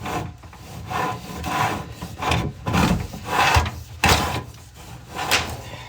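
Inspection camera cable being fed down a rigid dryer vent pipe, scraping and rubbing against the duct in a series of irregular strokes.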